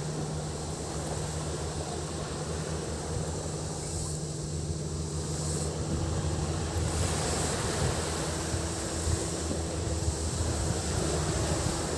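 Sea waves washing onto a beach, with a steady high drone of cicadas over it and a steady low hum underneath.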